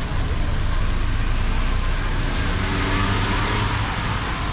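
Street traffic passing close: a steady low engine hum, with a rushing hiss that swells about halfway through as a vehicle goes by.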